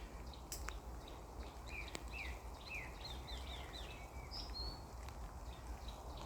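A songbird singing one phrase of quick, falling whistled notes that ends on a higher note, over a steady low rumble, with a few sharp ticks.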